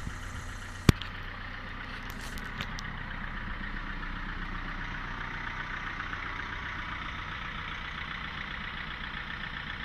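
2016 Opel Astra K's 1.6-litre four-cylinder turbodiesel idling steadily shortly after a cold start at −5 °C. A single sharp click sounds about a second in, with a few faint clicks a second or so later.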